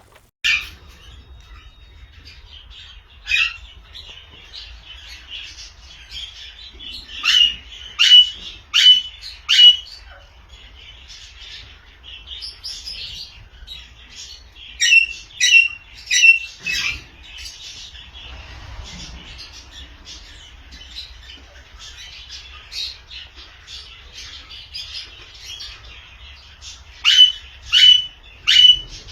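Alexandrine parakeets squawking: loud, harsh calls in runs of four or five, about one a second, repeated three times, over steady softer chirping.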